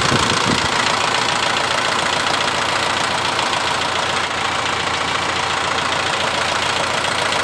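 Kubota M6040 tractor's diesel engine running steadily at idle.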